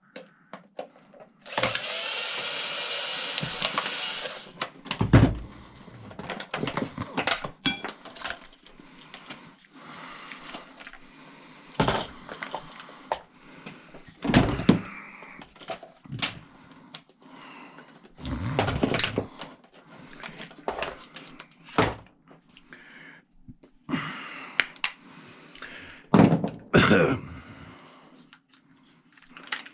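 Knocks, thunks and clatter of scrap parts being pulled apart and handled with tools, with a steady mechanical noise lasting about two and a half seconds near the start.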